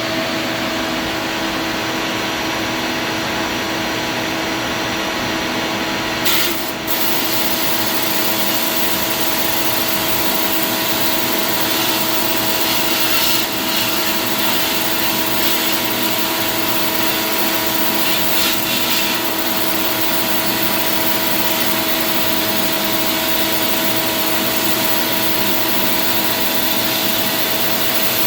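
Abrasive blast cabinet running on compressed air: a loud, steady hiss with a constant hum under it. The hiss grows brighter about six seconds in.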